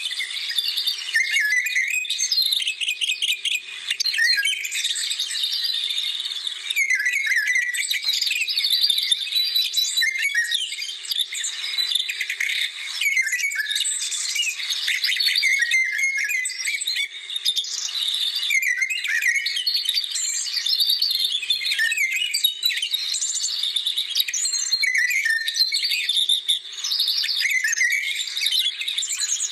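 Many birds singing at once: a dense, continuous chorus of overlapping chirps, trills and whistled phrases.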